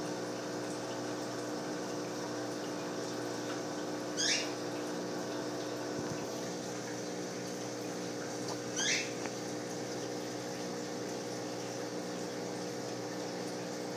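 Aquarium pump and water running steadily with a low hum. Two short high chirps cut in, about four and a half seconds apart.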